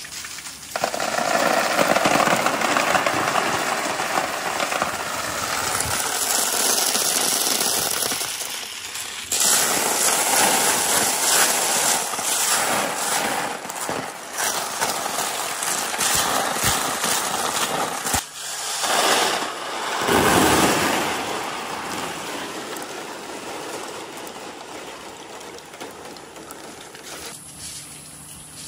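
A large mass of marbles rolling and clattering down a marble run, a dense rattle of many small clicks that thins out and fades over the last several seconds.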